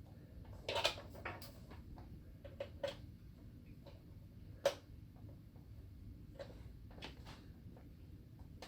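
Scattered clicks and light knocks of power plugs and cords being handled and pushed into a battery backup's outlets. The sharpest clicks come about a second in and near the middle.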